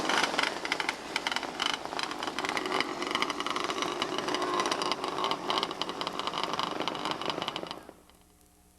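Small race car engines buzzing and revving as the cars circle the track, cutting off abruptly near the end to a faint hum.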